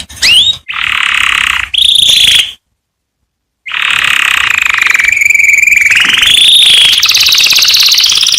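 Domestic canary singing: rising whistled notes and fast trills, then after a second-long silence a long, unbroken rapid trill that dips and rises in pitch.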